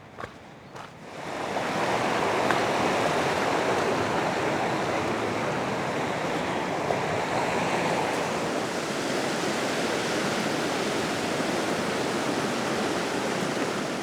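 A fast-flowing river rushing, a steady wash of water noise that swells up about a second in and then holds even.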